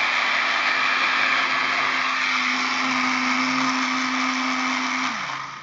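Small electric fan motor of a tabletop robot vacuum cleaner kit running steadily with a hum and airy hiss. Near the end the hum drops in pitch as it winds down and stops.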